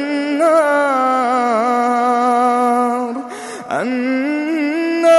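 A man's voice chanting Quranic recitation in long, held melodic notes with wavering ornaments; he breaks off for a quick breath about three and a half seconds in, then carries the chant on.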